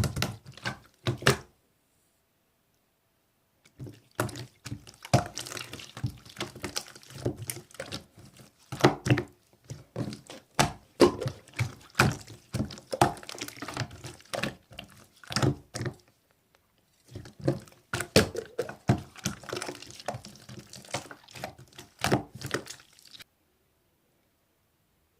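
Slime being squished and pressed by hand: runs of sticky, wet clicks and pops, broken by short pauses, ending in silence shortly before the end.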